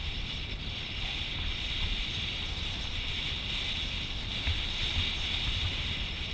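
Steady rushing wind noise and low gusty rumble on an action camera's microphone while it moves, with no clear engine tone.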